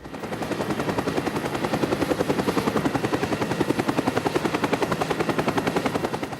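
A rapid, steady mechanical chatter of about ten even pulses a second, like an engine or rotor sound effect. It starts abruptly.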